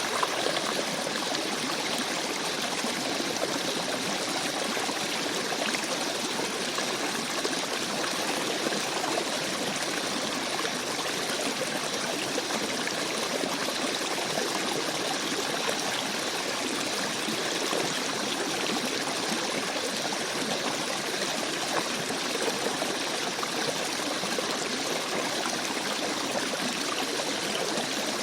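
Small forest stream babbling and trickling over rocks, a steady, even rush of water with no change.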